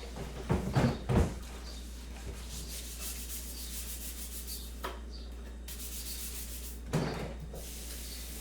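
Kitchen utensils being handled: rubbing and scraping with a few knocks, clustered about a second in and again near seven seconds, over a steady low hum.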